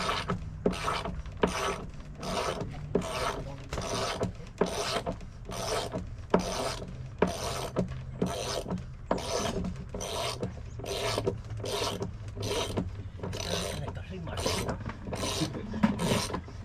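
A hand tool worked in a steady rhythm, about two to three short scraping, clicking strokes a second, over a low steady hum.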